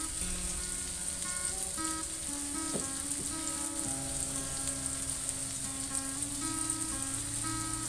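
Ground spice paste sizzling steadily in oil in a steel wok as it is sautéed, with background music playing.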